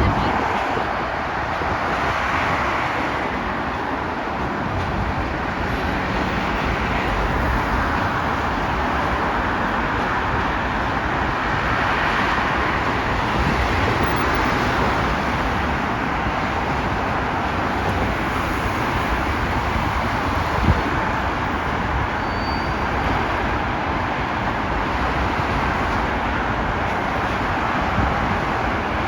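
Steady vehicle noise, a continuous rolling wash that swells and eases slowly, with one short knock about two-thirds of the way through.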